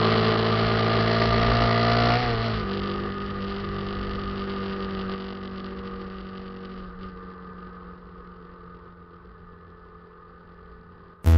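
Motorcycle engine running steadily, dropping in pitch about two seconds in as it slows, then fading away gradually.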